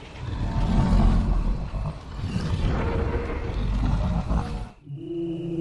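Dinosaur roar sound effect: two long roars one after the other, cutting off abruptly near the end as music with held notes comes in.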